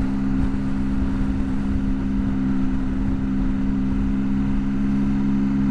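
Motorcycle engine running at a steady speed while riding, holding an even note, over a low rumble of wind buffeting.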